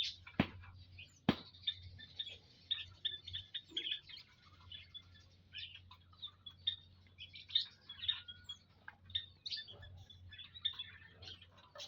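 Prenjak lumut, small warblers, chirping in short rapid calls over and over, more than one bird at a time, with two sharp taps in the first second and a half.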